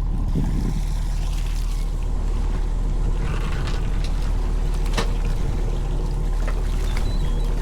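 Fishing boat's engine running at a steady low drone, with a single sharp knock about five seconds in.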